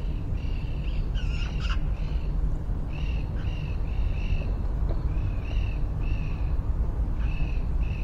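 A bird calling in a steady series of short, arched notes, about two a second, with a louder, more complex call about a second in. A steady low rumble runs underneath.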